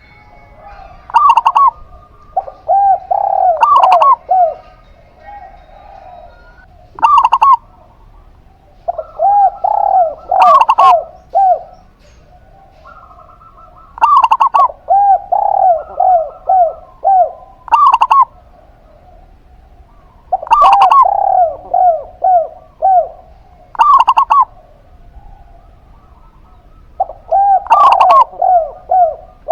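A zebra dove and a spotted dove cooing against each other. A sharp, higher coo comes about every three seconds, and runs of four to six lower, rounder coos fall in between.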